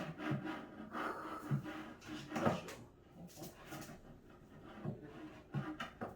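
Cat tower parts being handled and fitted together during assembly: a sharp knock at the start, then irregular knocks, clicks and rubbing.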